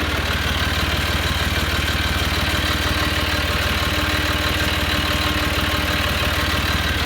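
John Deere 5055E tractor's diesel engine running steadily, with a fast even firing pulse.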